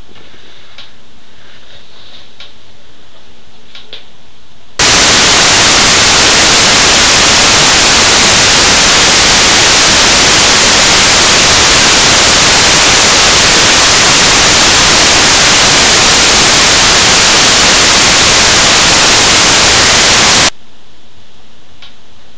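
Loud, even hiss of static noise that cuts in abruptly about five seconds in and cuts out just as abruptly some fifteen seconds later, with faint ticking clicks before and after it.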